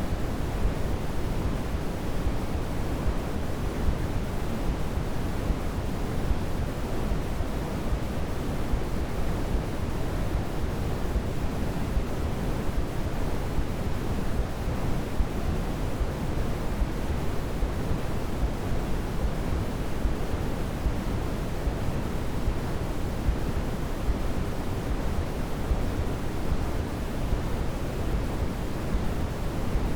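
Steady white noise sleep-aid track: an even, unbroken rushing hiss, heavier and deeper in the low end than in the highs, with no swells or changes.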